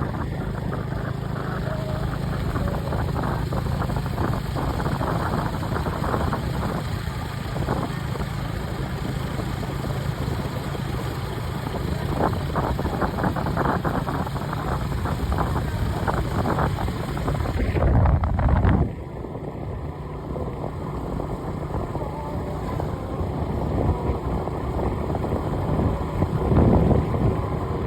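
A vehicle engine running steadily under rough, rushing noise; the sound changes abruptly and drops in level about two-thirds of the way through.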